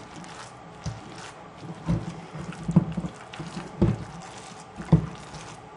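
Wet squelching as raw meatball mixture is mashed and kneaded by hand in a bowl, a soft squish about once a second.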